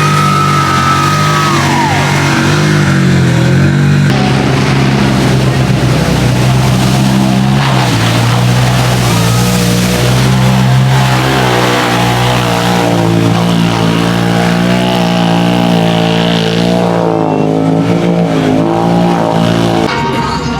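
ATV and side-by-side engines revving in a mud pit, with music with a bass line playing over them.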